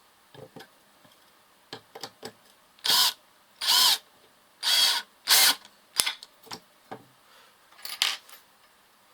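Vikhr DA-18L-2KU cordless drill-driver motor triggered in about five short bursts, each under a second, its pitch bending up and down within each burst. Light clicks and knocks from handling the tool fall between the bursts.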